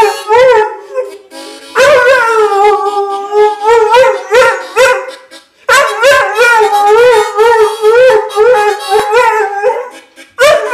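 A dog howling along to a bluesy harmonica, in long wavering howls that break off briefly about a second in, about five seconds in, and near the end.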